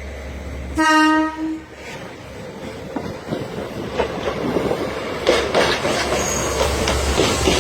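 Steam locomotive whistle, likely the SL Hitoyoshi's 8620-class engine, blows one short blast about a second in. Then the train's running noise of wheels clattering over rail joints builds up and grows steadily louder as it approaches.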